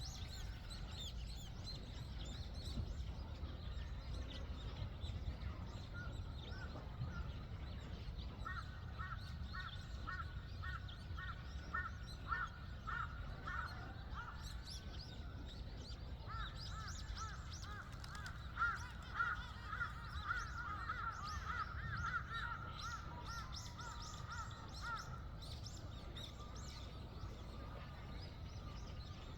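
A bird calling in two long runs of quickly repeated notes, the second run longer, over scattered higher chirps from small birds and a steady low background rumble.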